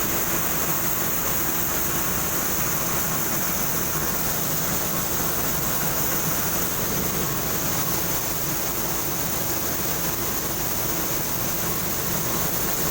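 A separator machine running steadily, a constant mechanical noise with a high hiss and a faint steady hum underneath.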